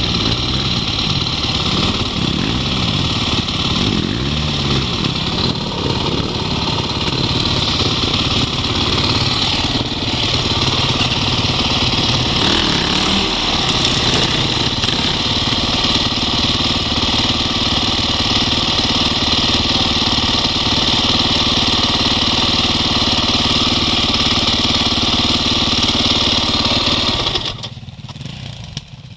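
Off-road motorcycle engine idling close by, steady and loud. During the first few seconds a second dirt bike's engine rises and falls in pitch under the throttle. Near the end the close engine cuts off, leaving the quieter sound of the other bike.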